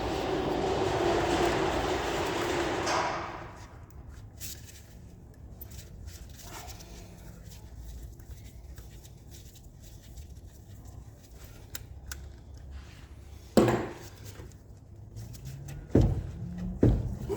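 A steady mechanical noise with a held tone cuts off about three seconds in. Then comes quiet workshop handling: light metallic clicks and rattles from hand tools and hose clips, with a few sharp knocks near the end as engine-bay parts are worked loose.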